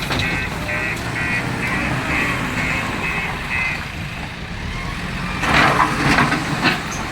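A vehicle's reversing alarm beeps about twice a second over a running diesel engine, then stops about halfway through. Near the end there is a loud, noisy rushing burst lasting about a second.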